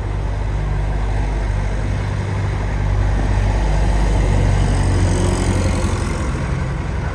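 Farm tractor engine running as the tractor drives past on the road, a steady low hum that grows louder to a peak about five seconds in and then eases off.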